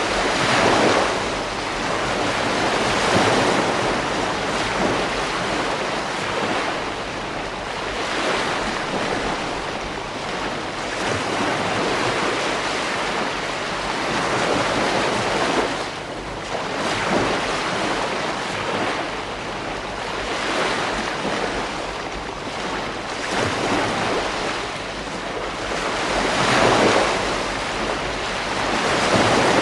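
Ocean waves breaking on a beach, the surf swelling and washing in surges every few seconds over a steady hiss.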